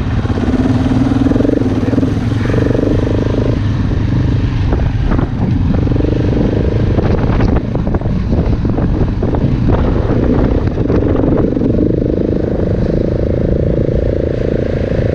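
Big single-cylinder dual-sport motorcycle being ridden along a dirt trail, its engine note rising and falling with the throttle, under constant wind buffeting. Frequent knocks and rattles come from the bike going over rough ground.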